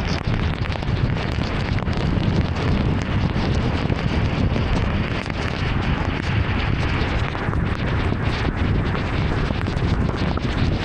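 Heavy rain on a moving car, mixed with tyre noise on the wet road: a steady, dense rush with a strong low rumble and scattered drop hits.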